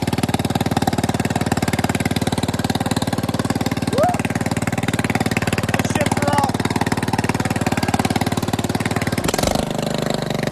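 Bolens riding mower engine running loud and steady through a homemade exhaust whose small muffler does little to quiet it. About nine seconds in, the engine note drops suddenly to a lower, slightly quieter run.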